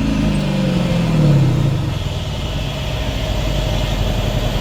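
Mercedes-Benz S550's V8 exhaust, revs dropping back over about the first two seconds and then settling into a steady idle.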